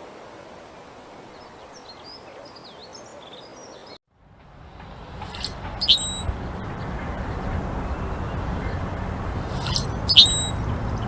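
Birds chirping: faint high twittering at first. After a brief break, sharp short chirps come in two clusters over steady low background noise.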